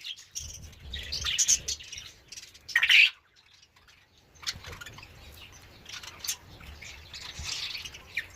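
Parrot calling in a run of irregular chirps and harsh squawks, the loudest a short screech about three seconds in.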